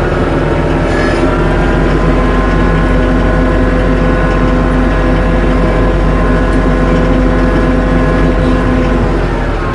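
Tractor engine running steadily while clearing snow, its pitch rising a little about a second in and dropping back near the end as the throttle or load changes.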